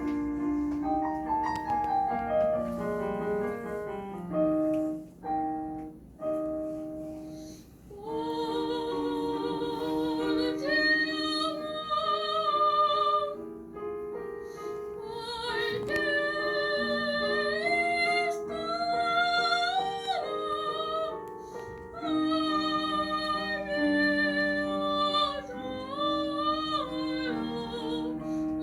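Soprano singing an opera aria with piano accompaniment: the piano plays alone for a few seconds, then the soprano's voice comes in with a wide vibrato over it.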